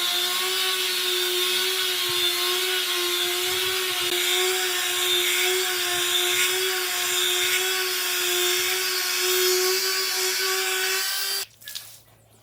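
Electric power tool running steadily at one constant whining pitch, working wood, then switched off abruptly near the end.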